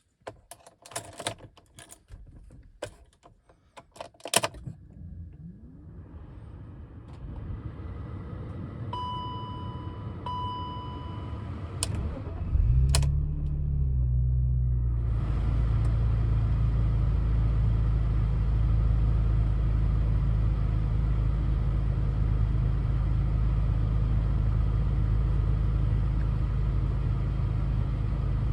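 Car engine cold start: a few clicks and knocks, a low hum building, and two short beeps, then the engine catches about twelve seconds in. It flares briefly, then settles into a steady idle.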